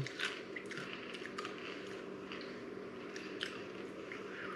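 A person chewing a hard, dry yakisoba-flavoured noodle snack, with irregular crisp crunches.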